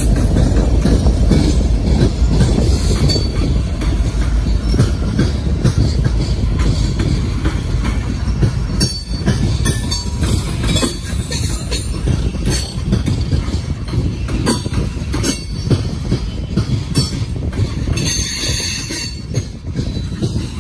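Loaded-or-empty coal gondola cars of a freight train rolling past close by: a steady heavy rumble with wheels clacking over rail joints, easing a little after the first few seconds. Near the end a wheel gives a brief high squeal.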